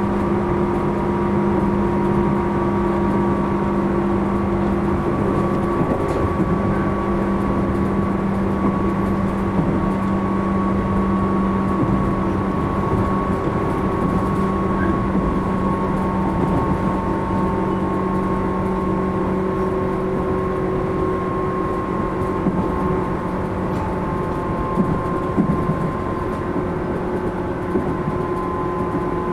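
Running sound heard inside the motor car of a Tobu 10000 series electric train: steady wheel-on-rail rumble with the traction motors and gears whining in several steady tones that drift slowly lower as the train eases off. A few louder bumps come near the end.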